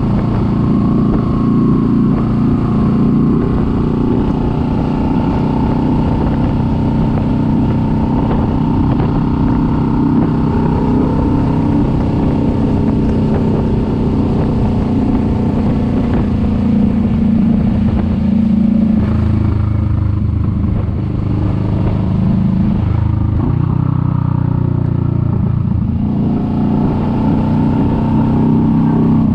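Kawasaki Vulcan S 650's parallel-twin engine running steadily under way. The engine note drops to a lower pitch about two-thirds of the way through as the bike eases off, then climbs again near the end.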